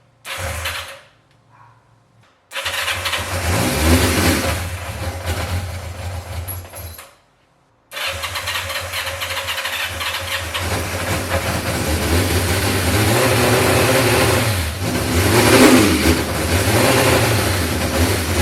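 1986 Yamaha FZ600's air-cooled inline-four engine running and being revved, in several stretches broken by sudden gaps. It runs briefly, then again from a few seconds in until it stops, then runs steadily from about eight seconds in with blips of the throttle.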